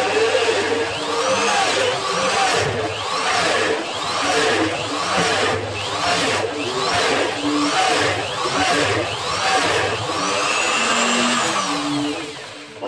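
Power tool motor running in a workshop, its pitch swelling and falling over and over, about every half second, as it works the material. It dies away near the end.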